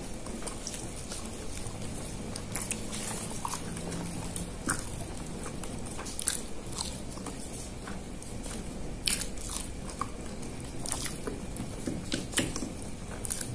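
Close-miked eating sounds: a person chewing and biting a banana-leaf-wrapped rice cake with peanut sauce, with many short, sharp mouth clicks scattered throughout.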